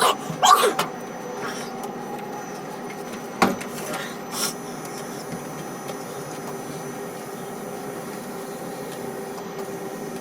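Ship-to-shore quay crane machinery running with a steady hum carrying a few fixed tones. Short squealing glides come in the first second, and a sharp knock about three and a half seconds in.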